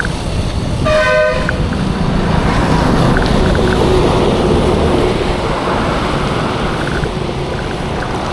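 A vehicle horn sounds once, briefly, about a second in, over steady road traffic noise with an engine passing close by.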